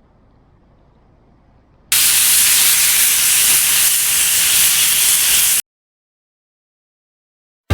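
A loud, even hiss that starts suddenly about two seconds in, lasts close to four seconds and cuts off abruptly.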